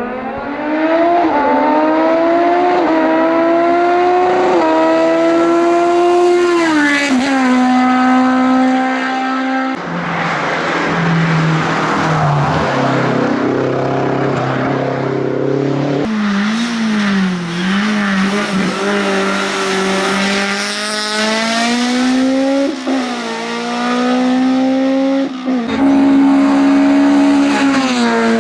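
Racing cars' engines accelerating hard up a hillclimb road, the pitch climbing through the gears and dropping at each upshift. Several cars follow one another in turn, with the engine note changing abruptly between them.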